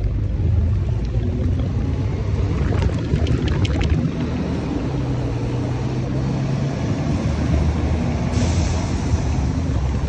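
A vehicle on the move: a steady low engine and road rumble whose engine tone shifts in pitch, with a few light clicks about three seconds in and a brief hiss about eight seconds in.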